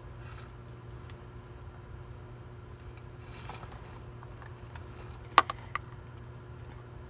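Steady low hum with faint scratching and ticking, and a quick run of three sharp clicks about five and a half seconds in.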